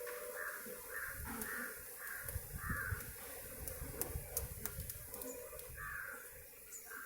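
A bird calling again and again in short calls, about two a second.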